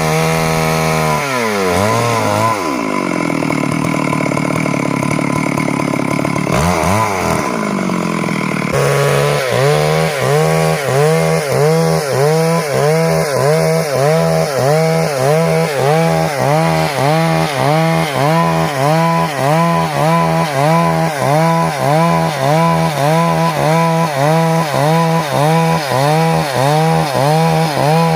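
Stihl MS382 two-stroke chainsaw running hard. Its engine pitch drops about a second in and stays lower for several seconds, then climbs again about nine seconds in and wavers in a regular pulse about one and a half times a second.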